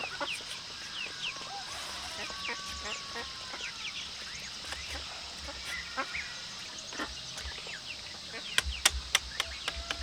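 Young poultry chicks peeping in short, falling chirps over a steady high-pitched hiss. Near the end comes a quick series of about seven sharp knocks.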